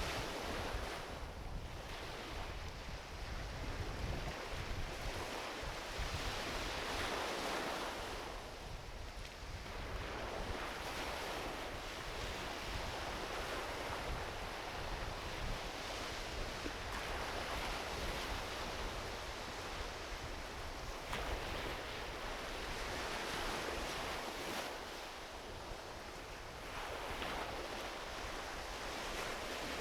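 Small ocean waves washing onto a beach, the surf swelling and easing every few seconds, with a low rumble of wind on the microphone.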